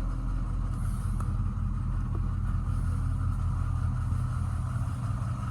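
Ford 6.0-litre Power Stroke V8 diesel idling with a steady low rumble, heard from inside the bus body.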